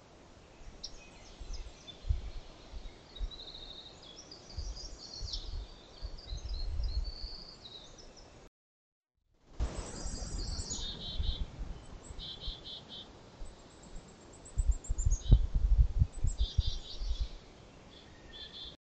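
Songbirds chirping and singing in spring woodland, several calls and short trills overlapping, with intermittent low rumbles. The sound cuts out for about a second midway, then the birdsong resumes.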